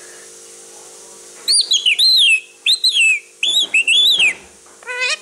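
Indian ring-necked parakeet giving a run of about five loud whistled calls, each rising and then falling in pitch. Near the end a harsher, rapid chattering call starts.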